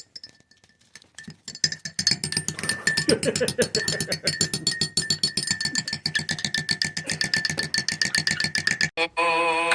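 Rapid, dense percussive tapping, like fast knocks on a wood block, starting about a second in. Near the end it cuts off abruptly as music with long held tones begins.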